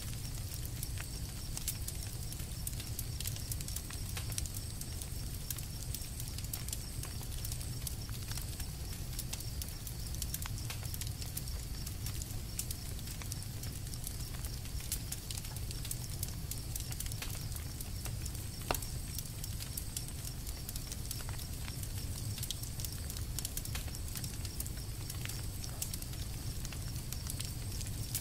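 Campfire burning: a steady low rumble with frequent small crackles and pops of burning wood, and one sharper pop about two-thirds of the way through.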